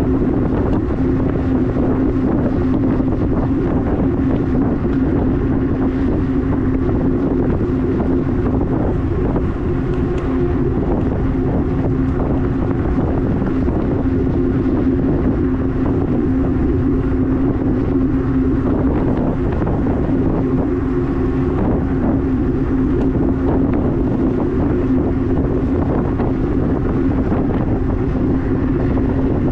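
EP-2 Pro e-bike being ridden, its motor giving a steady hum at an even pitch, with wind buffeting the microphone.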